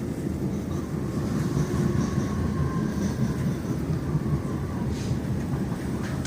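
Electric suburban passenger train running along the track: a steady low rumble of wheels and running gear, with faint thin squeals drifting slightly in pitch over it.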